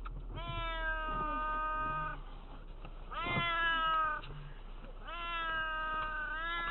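A cat meowing: three long, drawn-out meows, each rising at the start and then held.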